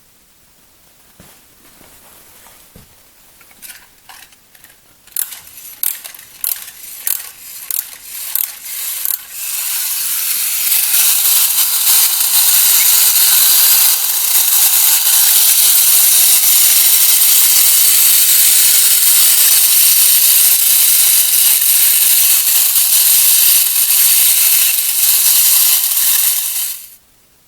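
Horikawa Engine Gear Robot, a 1960s Japanese tin wind-up toy: a run of separate ratcheting clicks as its clockwork is wound, then its clockwork motor and gears running with a loud steady whirr, which cuts off suddenly near the end.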